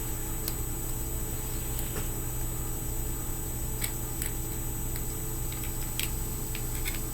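Steady mechanical hum, like a fan or appliance running, with a few faint light clicks as small fingerboard parts are handled.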